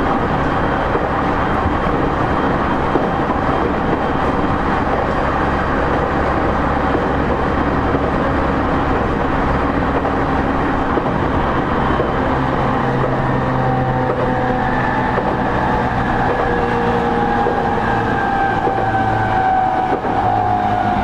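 Running noise inside the motor car of a JR East E231-0 series electric train at line speed: steady wheel and rail rumble with traction motor and gear whine. About two-thirds of the way through, the whine starts to fall gently in pitch as the train slows.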